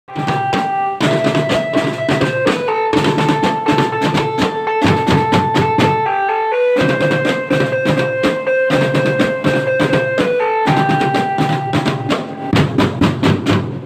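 Marching band playing, with dense snare and bass drum beats under long held melody notes that step from pitch to pitch.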